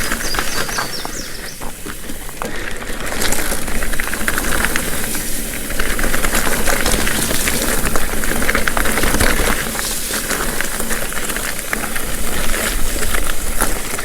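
Mountain bike rolling fast down a dirt singletrack: a steady rush of tyre and wind noise on the microphone, with the chain and frame rattling over bumps.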